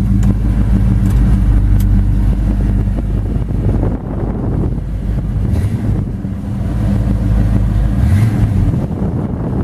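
Oldsmobile 455 cubic-inch V8 running: a steady low engine note for about four seconds, then a rougher, noisier stretch without a steady pitch.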